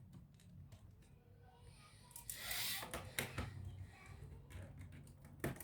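Scattered light clicks and a brief scraping rustle about two seconds in, with sharper clicks near the end: hands working on laptop parts and plastic casing.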